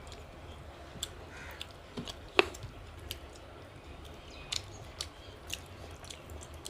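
Eating sounds of fish curry being eaten: scattered small mouth clicks and smacks, the loudest about two and a half seconds in, over a low steady hum.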